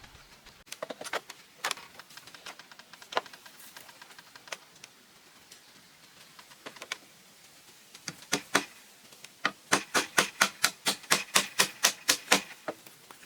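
Sharp knocks, scattered at first, then a quick even run of about four a second near the end.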